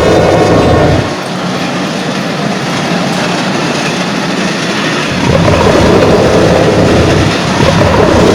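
Train running along the track, its wheels clattering over the rails. The deep rumble drops away about a second in and comes back about five seconds in.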